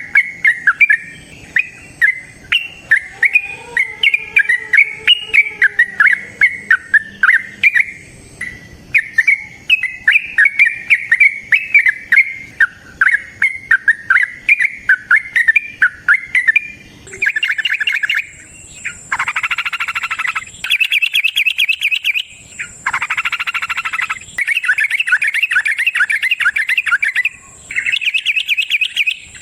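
Yellow-vented bulbul (trucukan) singing in a long run of quick, bubbly chirping notes. About two-thirds of the way through, the song changes to long, rapid trilled bursts with short breaks between them.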